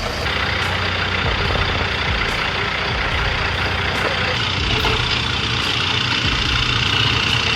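Heavy vehicle engine running steadily, with a continuous low hum.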